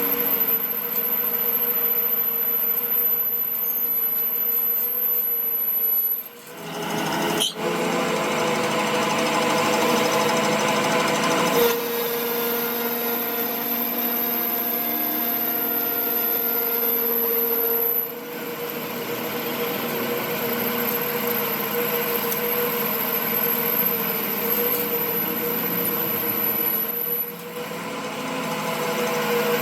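A machine-shop power tool running steadily, with a constant hum and a high whine, in several short segments that change abruptly about every six seconds.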